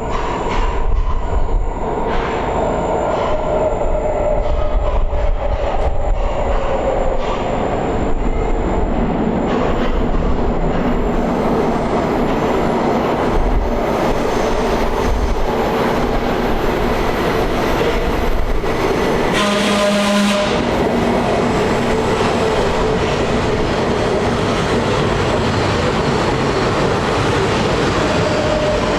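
Breda A650 heavy-rail subway train pulling into a station, with steady rumble and wheel noise. A motor whine falls slowly in pitch over the first several seconds as the train slows. A brief horn-like tone sounds about two-thirds of the way through.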